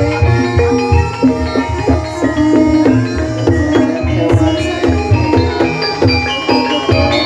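Javanese gamelan ensemble accompanying an ebeg hobby-horse dance: rapid, evenly struck pitched notes over hand-drum (kendang) strokes, in a steady rhythm.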